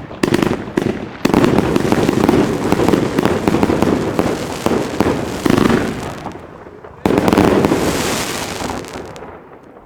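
El Gato Fiesta Grande firework battery firing a dense stream of rapid bangs and crackles. There is a volley at the start, then near-continuous firing until about six seconds in. A last loud volley comes about seven seconds in and dies away near the end.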